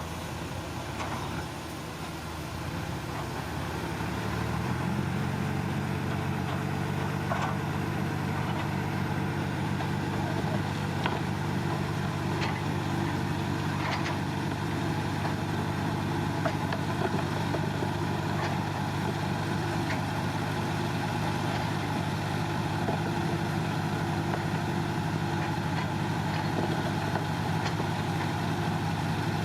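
Heavy diesel engine of construction machinery running steadily. Its note steps up and grows louder about four seconds in, then holds, with a few light knocks here and there.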